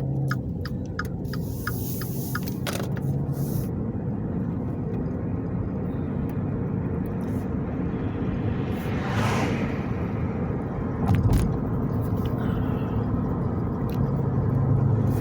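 Road and engine rumble inside a moving car's cabin, steady throughout, with a quick run of even ticks in the first second, a swelling whoosh around nine seconds in and a short low thump about two seconds later.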